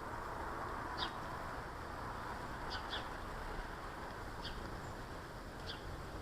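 Small garden birds giving short, high chirps, about five in all and a pair close together near the middle, over a steady background rumble.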